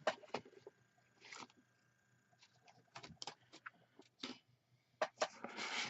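Light clicks and rustling of small craft supplies being handled, with a stamp pouch being searched through; the rustling gets denser near the end.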